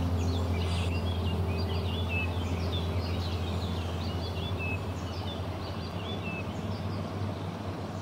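Many small birds chirping and tweeting in quick short calls, over a deep held tone that slowly fades: the ringing tail of a low struck note in meditative background music.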